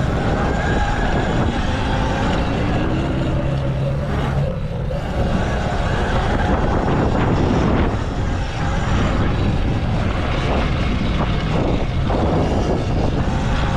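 Full-electric Stage2 M1 motocross bike ridden hard: the electric motor's whine rises and falls with the throttle over a steady rush of noise.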